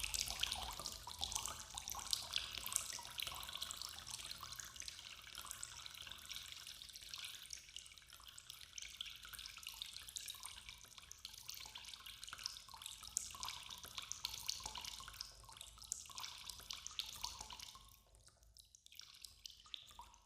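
Water running and dripping, with many small splashes, fading out about two seconds before the end.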